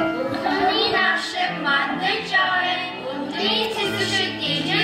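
Children singing a song together over an instrumental accompaniment with held low notes.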